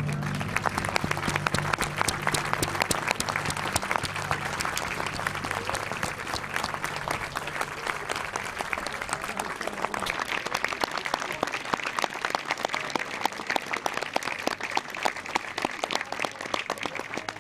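Crowd applauding, a dense, steady clatter of many hands clapping. Under it, a low droning hum from the aircraft fades away over the first ten seconds or so.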